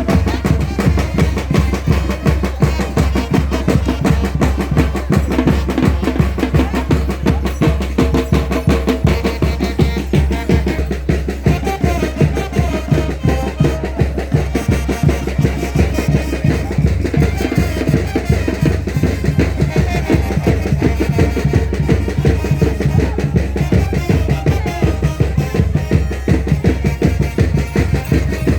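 Tinkuy music led by heavy drums beating a fast, steady rhythm, with a melody line above the drums.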